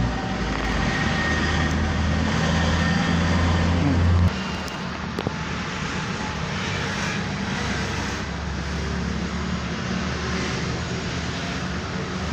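Steady engine-like drone with a low hum, louder for the first four seconds and then dropping suddenly; a single sharp click about five seconds in.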